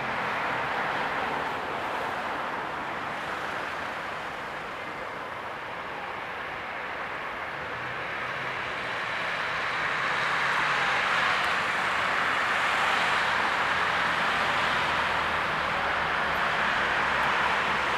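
Regio passenger train pulling out of the station, its steady running noise growing louder about ten seconds in.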